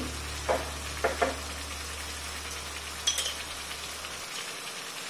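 Tomato purée masala sizzling quietly in a steel kadai over a gas flame: a steady hiss, with a few light metallic clicks, and a low hum that stops about four seconds in.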